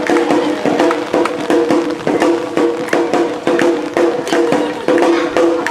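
Awa odori festival band playing: drums and a small hand gong (kane) strike a brisk, steady beat about two to three times a second over sustained melody notes.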